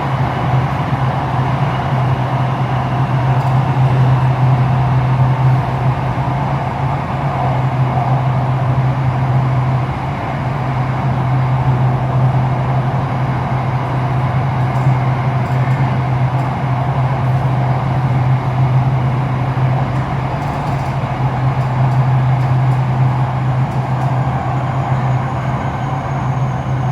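Running noise inside a Ho Chi Minh City Metro Line 1 electric train between stations: a steady low hum over an even rushing noise.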